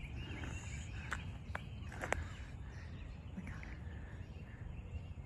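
Birds chirping outdoors over a low steady rumble, with a few sharp clicks about one to two seconds in.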